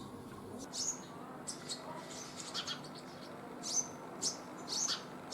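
Small birds chirping: short, high, sharp chirps in irregular bursts, several within a second at times, over a faint steady background.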